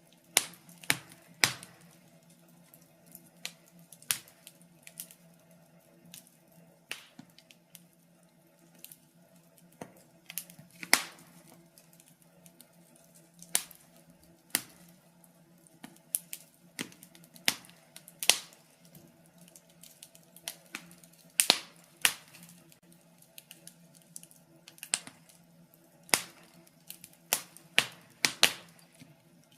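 Fire in a fireplace crackling, with sharp irregular pops, some in quick clusters and others spaced a second or more apart, over a faint steady low hum.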